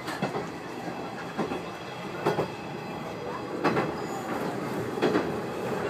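Diesel railcar running along jointed track: a steady rumble with sharp wheel clicks over the rail joints every second or so, several coming in quick pairs.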